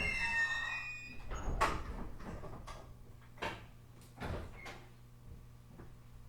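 E127 series EMU's Toyo Denki GTO-VVVF inverter and traction motors whining in a falling chord as the train brakes to a stop, dying out about a second in. Then comes a run of about six sharp knocks and clunks from the stopped car over the next three seconds, over a steady low hum.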